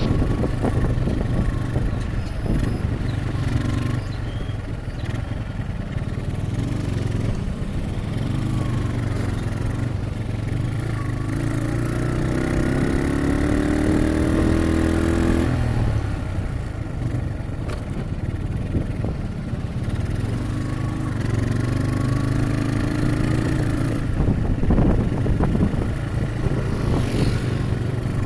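A Yamaha Byson motorcycle's single-cylinder engine running while the bike is ridden, over a steady low rumble. Midway through, the engine pitch climbs for a few seconds as it accelerates, then drops off.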